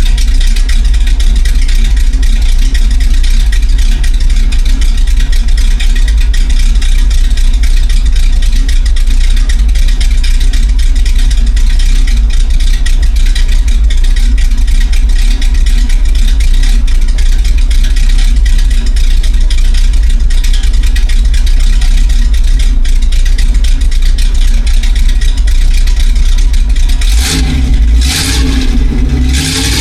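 Chevrolet 427 big-block V8 in a C70 truck running loud and steady through homemade 'hillbilly' mufflers, a deep continuous exhaust rumble. Near the end the sound changes briefly, its pitch swinging up and back down.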